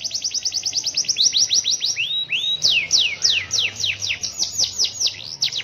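Domestic canary singing a long rolling song of rapid downward-sweeping trilled notes, about ten a second. Around two seconds in it slows to a few longer rising and falling phrases, then speeds back into fast trills.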